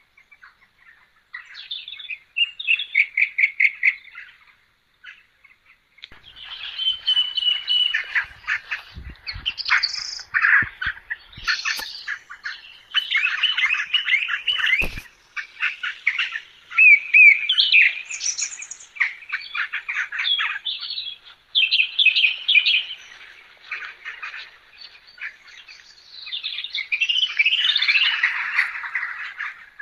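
Birds chirping and calling in overlapping trills and short whistled phrases, with a few faint clicks about halfway through.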